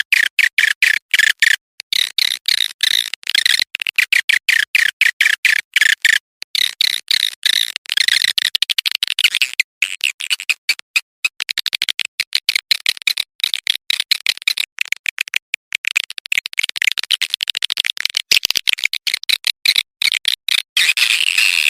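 Swiftlet lure call recording: rapid chirping twitters of swiftlets, many per second, with short gaps, the calling sound played to attract swiftlets to a nesting house.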